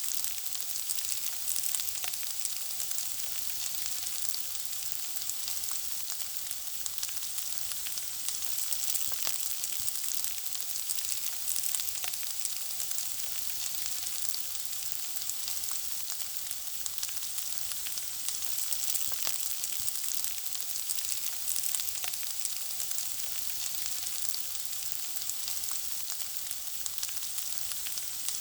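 Food frying in hot oil: a steady high sizzle with constant fine crackling and popping.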